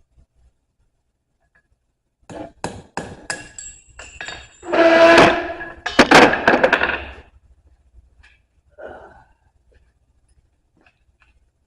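Metal tool striking steel bar stock. It begins with a quick run of light taps, then gives two loud ringing blows about a second apart, then a few faint taps. These are punch marks being struck at the measured points on the bar so they stay visible in the fire.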